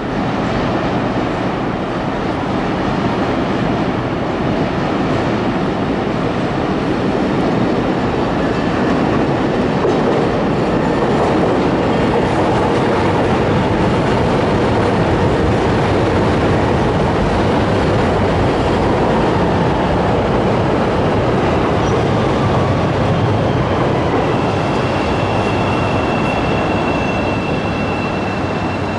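CTA 5000-series Chicago L train running on elevated track: a loud, steady rumble of steel wheels on the rails. From about 24 seconds in, a thin steady high tone sounds over the rumble as a train pulls into the station.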